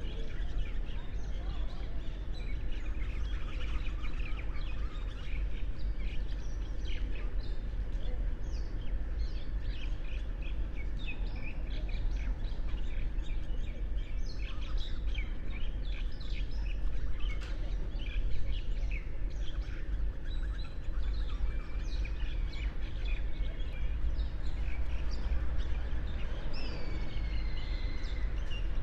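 Many small birds chirping and twittering at once, with a few drawn-out falling whistled calls near the start and again near the end, over a steady low rumble.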